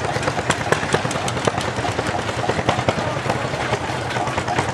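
Several hot-bulb tractor engines running at once: a jumble of irregular sharp knocks over a steady low drone.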